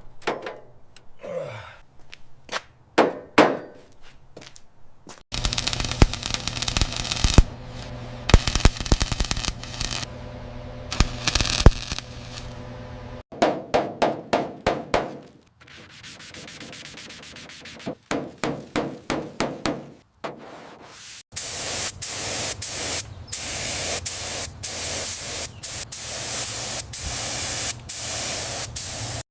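Car restoration work sounds cut together: rubbing and sanding strokes and stretches of steady machine noise, changing abruptly several times.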